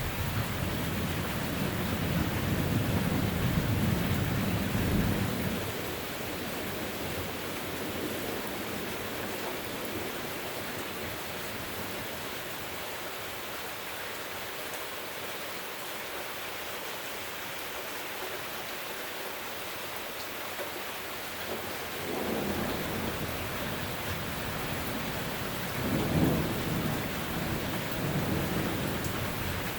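Steady rain falling through a thunderstorm, with thunder rumbling low for about five seconds at the start and twice more late on, the last peal the loudest.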